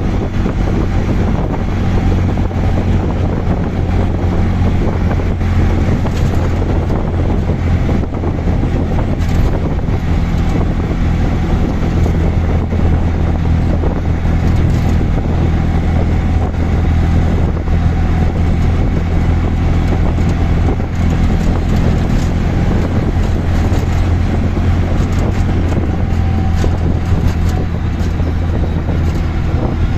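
An auto rickshaw's small engine running steadily while under way, a constant low hum mixed with road noise.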